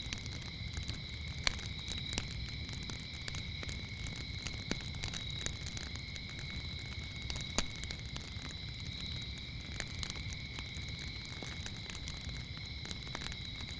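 Wood fire crackling, with scattered sharp pops over a low rumble of flames, against a steady high trill of crickets. The loudest pop comes about halfway through.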